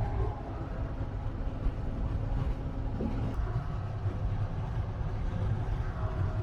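Steady low rumble of a Marcopolo Paradiso 1800 DD G7 double-decker bus on a Scania chassis under way, heard from inside the cabin, with a faint steady hum over it.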